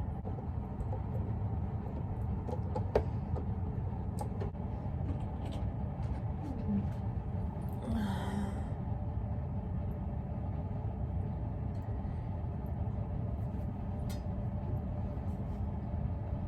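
Steady low hum and rumble of room noise, with a sharp click about three seconds in and a few faint ticks.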